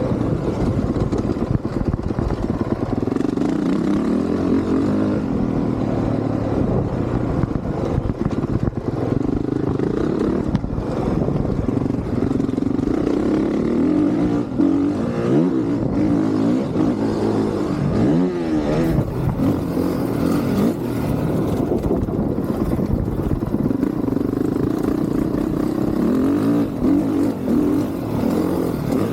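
Honda CRF450R's single-cylinder four-stroke engine being ridden hard, its pitch rising and falling again and again as the rider opens and closes the throttle and shifts gears.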